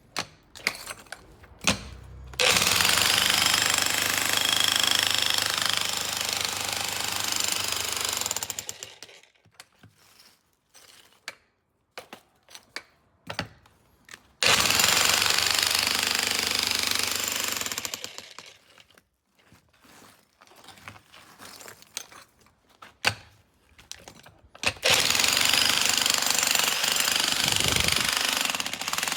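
A 1700 W electric demolition hammer (DESHI Z1G-DS-65C) with a point chisel, breaking concrete. It runs in three bursts of several seconds each, with short separate knocks in the pauses between them.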